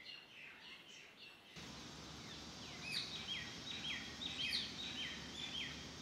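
Faint outdoor ambience: a steady hiss comes in about one and a half seconds in, then a bird sings a quick run of short, repeated whistled notes, about four a second. Softer bird chirps come before the hiss.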